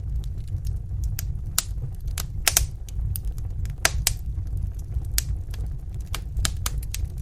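Wood fire crackling in a fireplace: irregular sharp snaps and pops over a steady low rumble, with the loudest pops about two and a half and four seconds in.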